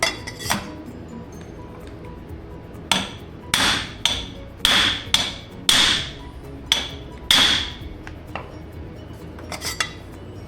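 Hammer blows on a homemade flaring tool driven into the end of a muffler pipe, each strike ringing. Two blows, a short pause, then a run of about eight heavy ones and a couple of lighter taps near the end, stretching the pipe end into a flange until it is close to splitting.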